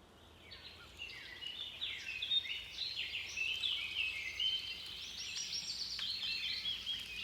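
Several birds singing at once, a dense chorus of quick chirps and trills that swells in over the first second or two.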